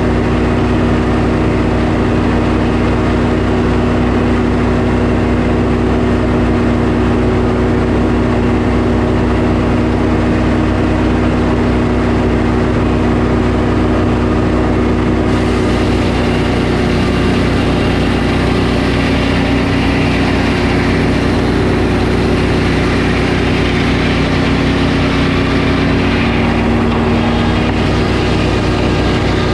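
Sawmill engine running steadily under load. About halfway through, a higher hiss joins the engine sound.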